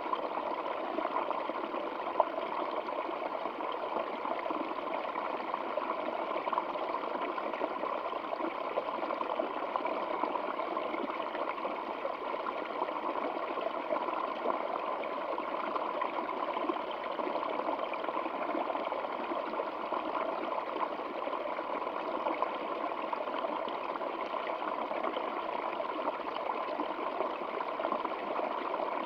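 Stream water flowing steadily: a continuous, even rush with little deep rumble.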